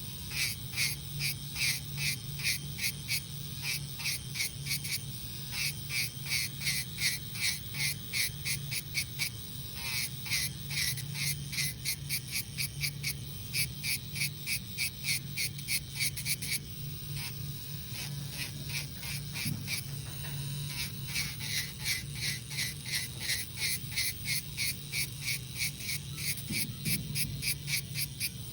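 Electric nail drill running with a steady hum, its bit rasping against the nail in quick regular strokes as it sands gel polish off.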